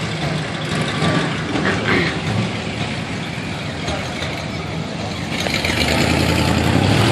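Classic cars and old pickup trucks passing slowly in a line, engines running with a steady low rumble. The sound grows louder near the end as another vehicle comes close.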